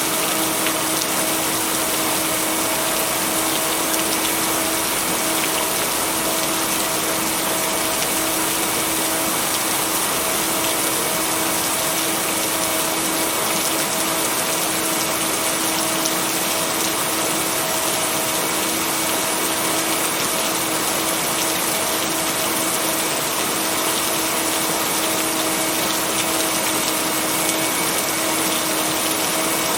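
Steady rain, an even hiss with no breaks or thunder claps. Beneath it runs a steady hum of pure tones, the binaural-beat tones mixed into the rain recording.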